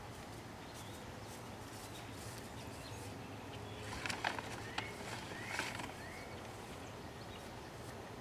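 Quiet outdoor ambience with a steady low hum. About halfway through, a few short rising bird chirps sound among brief crinkling clicks of a paper bag being handled.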